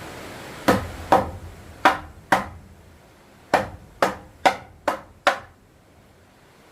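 Nine sharp knocks of a tool striking wood, each with a short ringing tail: four blows, a pause of about a second, then five quicker ones.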